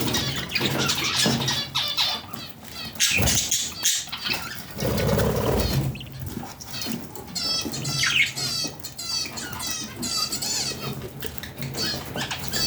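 Budgerigars chattering and warbling in quick, varied chirps. A louder, low, noisy burst comes about four to six seconds in.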